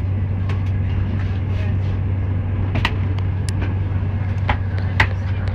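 Steady low hum and rumble inside an Italian Eurostar passenger car, with a few short sharp clicks or rattles in the second half, the loudest near the end.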